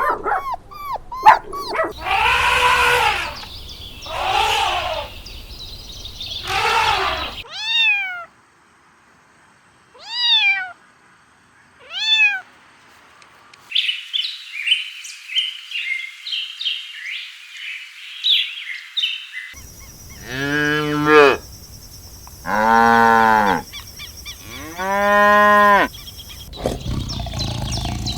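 A series of animal calls: long, arching cries, three near the start and three more near the end, with short falling chirps and a high twittering between them.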